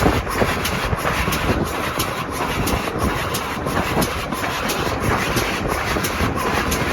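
A train running on the line: a steady rumble of wheels and rails with a regular beat.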